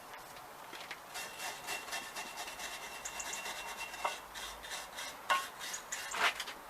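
Hand scraping on rusted iron, many rough irregular strokes of a metal tool working off rust and dirt, with a few sharper clicks from about four seconds in.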